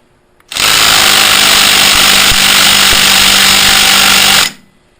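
Impact wrench hammering in one steady burst of about four seconds, starting half a second in and stopping sharply. It is trying to break loose a stubborn fastener that will not come free.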